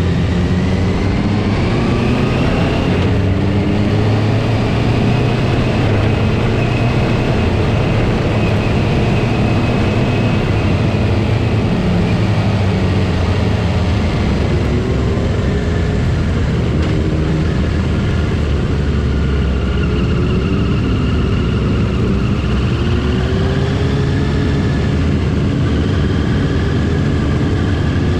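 Several motorcycle engines running together, their pitch rising and falling with the throttle.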